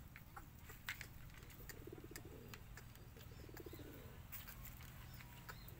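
Racing pigeons cooing softly: a couple of low, throaty, rapidly pulsed coos, with scattered faint clicks and taps.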